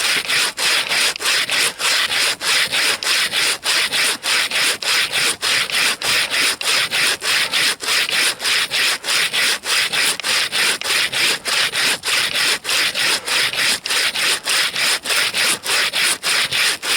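Bow saw cutting through frozen wood: its toothed blade rasps in even back-and-forth strokes, with a short break at each change of direction about three times a second.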